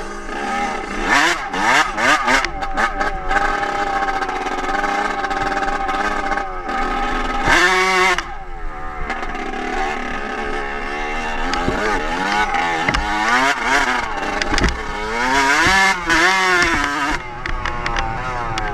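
Dirt bike engine revving up and down as it is ridden, the pitch rising and falling with the throttle; about eight seconds in it revs hard and then cuts off sharply, and near the end it revs up and down again several times.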